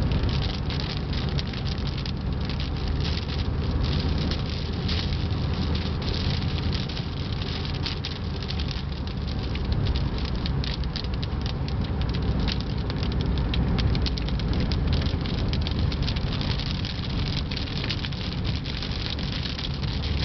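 Rain pattering on a car's windshield, heard from inside the moving car over a steady low road rumble.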